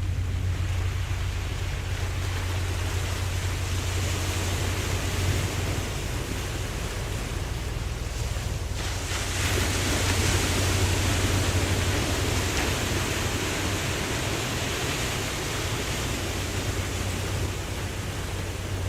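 Ocean waves washing in a steady hiss over a constant low rumble. A louder surge of wash comes in about halfway through.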